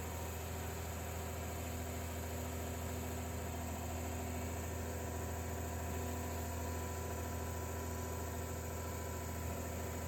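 A steady low engine hum, like heavy diesel equipment running at a constant speed, with no change in pitch or load.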